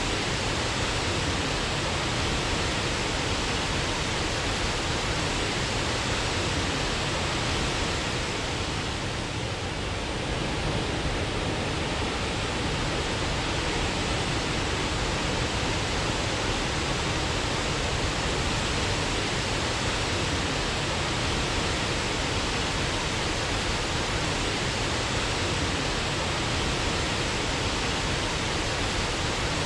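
Waterfall: a steady rush of falling water, easing slightly for a moment about nine seconds in.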